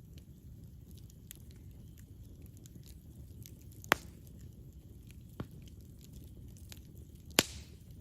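Campfire burning, with a low steady rumble and many small crackles, and two sharp loud pops about four seconds in and near the end, with a smaller pop between them.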